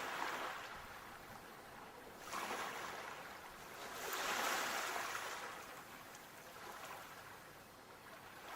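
Sea waves washing in and out in swells of rushing water. One swell comes at the start, another about two seconds in, and the loudest around four to five seconds in, followed by a quieter lull.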